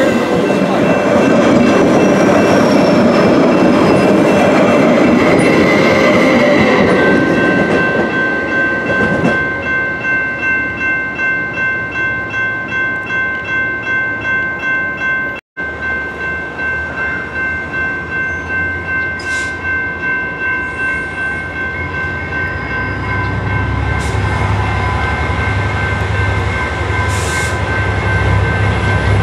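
A TEXRail Stadler FLIRT train rushes past for the first several seconds while the grade-crossing bells ring. Then the crossing bells ring on their own, about twice a second. From about two-thirds of the way in, the low engine rumble of an approaching TRE diesel locomotive builds under them.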